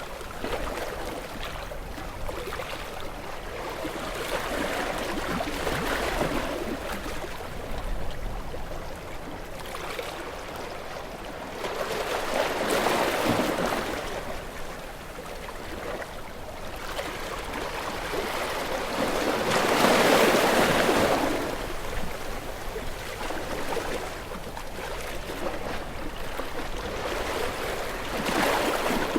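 Ocean waves washing ashore, a continuous rush of surf that swells and falls, with louder breakers about 12 seconds in and about 20 seconds in.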